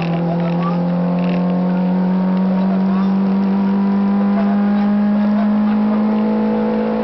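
Citroën AX GTI rally car's four-cylinder engine heard from the cabin, pulling hard in one gear with the revs climbing slowly and steadily throughout. The slow climb fits the car's serious lack of power that the crew reports.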